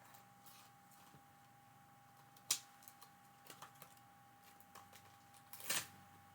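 Small clicks and taps of rubber-stamping supplies being handled: one sharp click about two and a half seconds in, a few light ticks after it, and a louder rustling knock near the end, over a faint steady hum.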